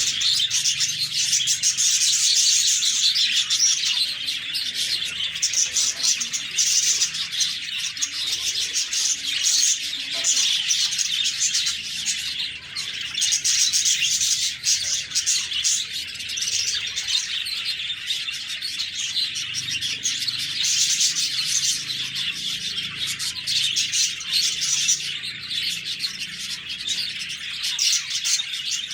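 A flock of budgerigars chirping and warbling, a dense, continuous chatter of many overlapping high calls.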